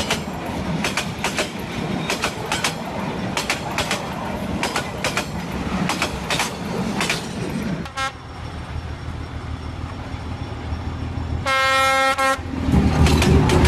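Train sound effect: a rhythmic clickety-clack of wheels over rail joints for about eight seconds, then a quieter rolling rumble, then one train horn blast about a second long near the end. Music comes in just after the horn.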